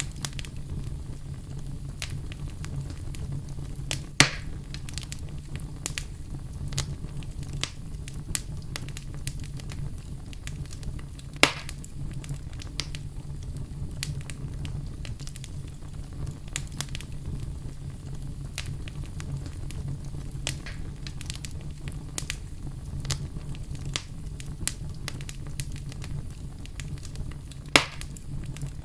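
Wood fire crackling steadily, a dense scatter of small snaps over a low steady rumble, with three loud sharp pops: about four seconds in, about eleven seconds in, and near the end.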